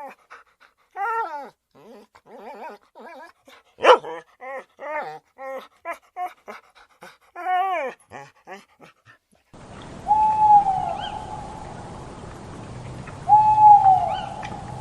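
A dog whimpering and yipping in a quick run of short, high cries. After an abrupt cut, a cat meows twice, each one long, falling call.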